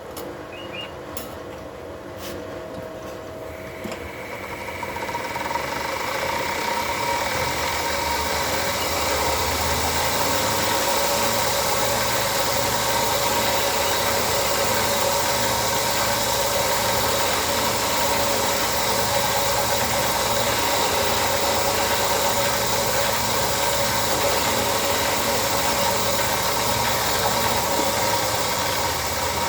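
A few sharp clicks, then a powered sharpening grinder running with a steady whine that builds up from about four seconds in and holds at full level, as a kukri blade is sharpened.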